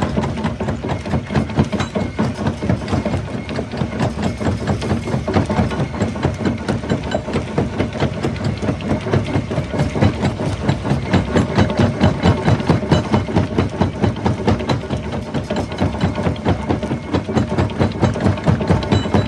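Jaw rock crusher running, pounding away with a steady, rapid rhythm of several strokes a second.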